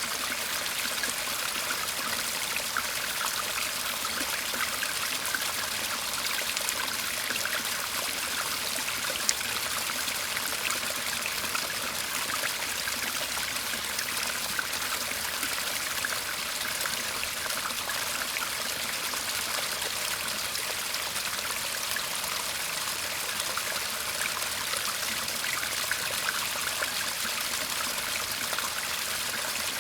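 Shallow garden stream murmuring and trickling steadily, an even rush of running water.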